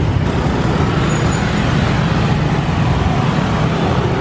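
Steady street traffic noise on a busy road, with the engines of scooters and cars running close by.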